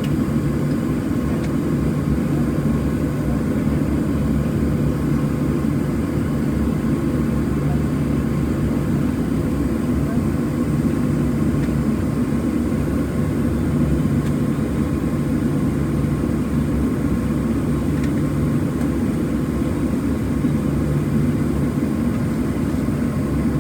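Boeing 737-700's CFM56-7B jet engines heard from inside the passenger cabin at low taxi power: a steady hum and rumble with a low drone running through it.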